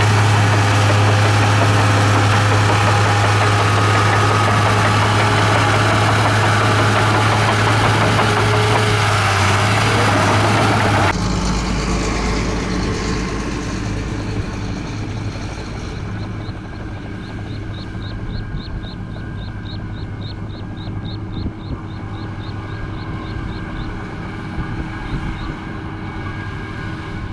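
Komatsu bulldozer's diesel engine working with a loud, steady low hum; about eleven seconds in the sound changes abruptly to a quieter, lower engine rumble. Over the later part, a run of short high chirps repeats about three or four times a second for several seconds.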